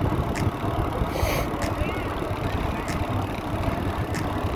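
Riding noise of a hybrid bicycle picked up by a handlebar-mounted phone: a steady road and wind rumble, with a light tick about every second and a quarter.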